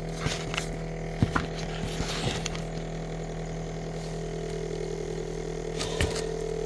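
Samsung Zipel SRT686FVIS refrigerator's compressor and condenser area running with a steady hum and a buzzing rattle. The rattle comes from the loosely held condenser, whose mounting's vibration damping the owner thinks has weakened. The rattle fades out about a second in and comes back about four and a half seconds in, with a few sharp clicks and rustles of handling on top.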